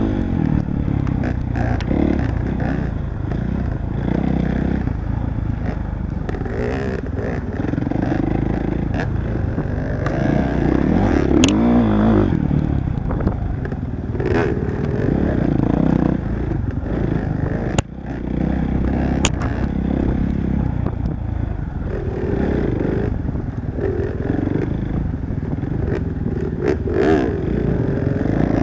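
Motorcycle engine running continuously while being ridden on a trail, its pitch rising and falling as the throttle is worked, with rattling and a few sharp clicks.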